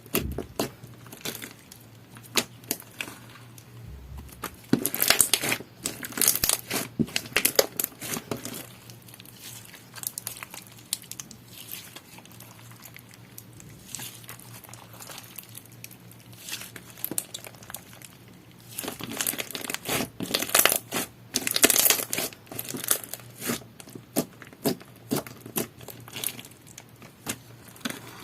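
Clear slime with small plastic deco blocks mixed in, being squished, stretched and poked by hand: sticky crackling with crunchy clicks and pops. It comes in busier spells, about five to eight seconds in and again around twenty seconds, with softer squishing between.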